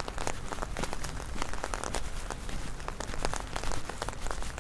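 Heavy rain falling on an umbrella overhead: a dense, steady patter of drop impacts.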